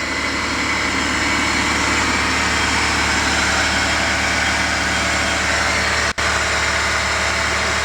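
Freshly rebuilt Honda VTEC four-cylinder engine running steadily, with a brief dropout about six seconds in.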